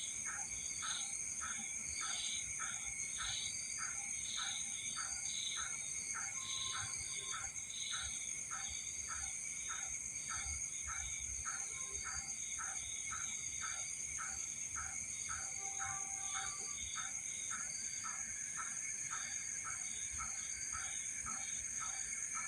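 Night chorus of insects and frogs: steady high-pitched cricket-like trills, with a frog calling in a regular pulse a little over twice a second.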